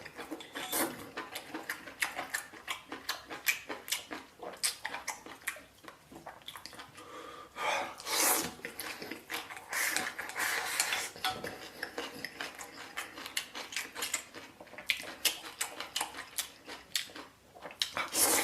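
Someone eating from a bowl: chopsticks or a spoon clicking and scraping against the dish many times, with chewing sounds.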